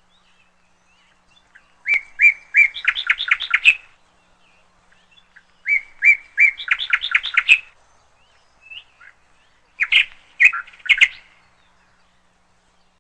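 Canary chirping in three short phrases, about four seconds apart, each a few separate high notes running into a quick trill.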